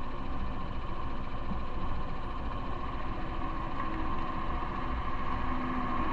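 Steady vehicle and road noise during a ride, with a low rumble and a faint engine hum that grows a little stronger near the end.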